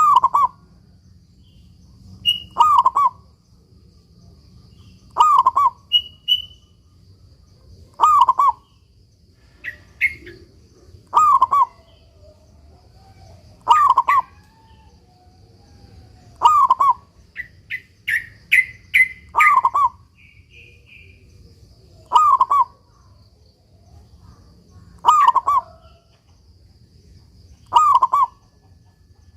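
Zebra dove (perkutut) singing its short cooing phrase over and over, one phrase about every three seconds. A few higher chirps fall between the phrases, in a cluster at about two-thirds of the way through.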